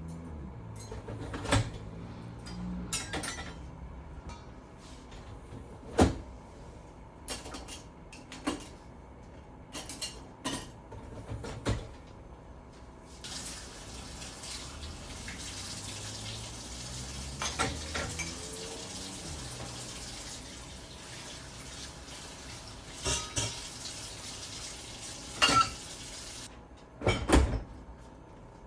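Dishes and cutlery clinking and knocking in a sink, with a tap turned on about halfway through and water running steadily until shortly before the end.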